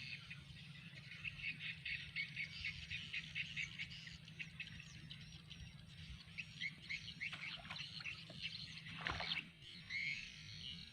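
Birds chirping, many short rapid calls overlapping, over a steady low hum, with a brief sweeping noise about nine seconds in.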